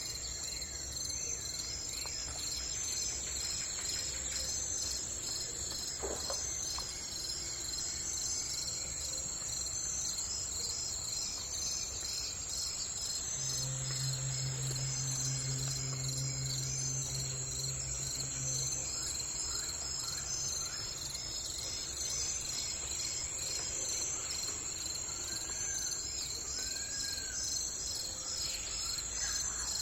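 A dense, steady chorus of insects chirping in a fast, even pulse. A few short bird chirps come near the end, and a low steady hum sounds for about five seconds midway.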